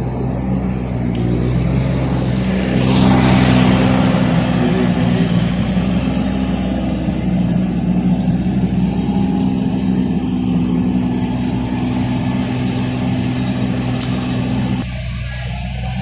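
A motorised floor-cleaning machine running steadily as it dries a wet courtyard: a low motor hum with a hiss over it. Part of the hum stops suddenly shortly before the end.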